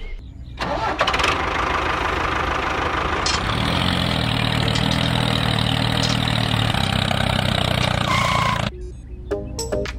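An engine running steadily, with a deeper engine note joining about three and a half seconds in; it cuts off suddenly near the end.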